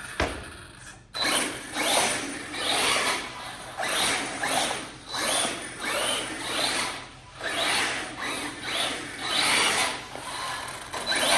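ARRMA Fireteam 6S RC car's brushless motor and drivetrain whining in repeated surges, about one a second, as it is throttled on and off. There is a short knock near the start.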